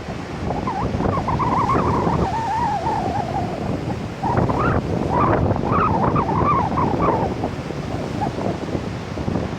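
Heavy typhoon surf breaking on the beach, with strong wind buffeting the microphone. The roar swells twice, about a second in and again around four seconds in, with a wavering whistle over each swell.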